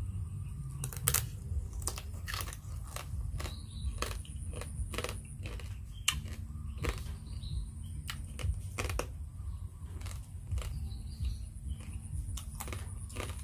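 A person chewing crab salad close to the microphone: irregular crunchy cracks as crab shell and raw vegetables are bitten through, over a steady low rumble.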